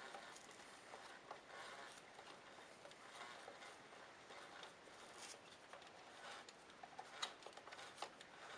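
Faint handling noise of a brand-new, tight drive belt being worked onto the brush roll of a 1960 Hoover 652 upright vacuum: light rubbing and small clicks, with a few sharper ticks near the end.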